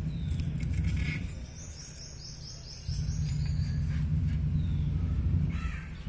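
A small bird calling a quick run of about ten short, high, rising chirps through the middle, over a low rumbling noise that drops away for a second or so and then starts again suddenly.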